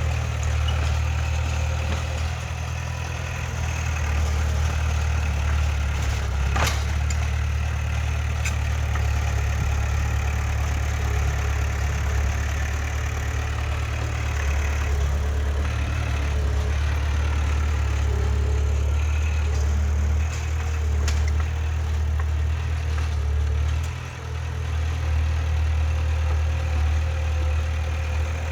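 Diesel engine of heavy earthmoving machinery running steadily with a deep hum, with a few sharp knocks, the loudest about six and a half seconds in.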